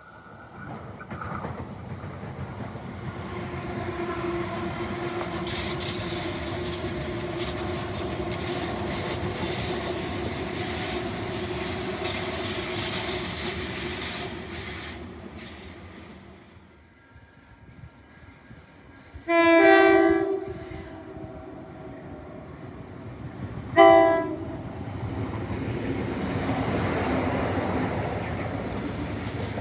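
A train running past on the rails, its wheels and running gear making a steady tone over a high hiss. About two-thirds through a train horn sounds twice: a blast of about a second, then a shorter one about four seconds later. Rail rumble carries on after.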